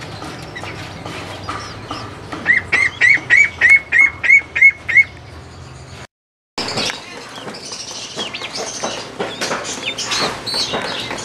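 A bird calling a loud run of about nine short rising notes, about three a second, among fainter chirps. After a brief dropout about six seconds in, many birds chirp together with clicks and faint calls.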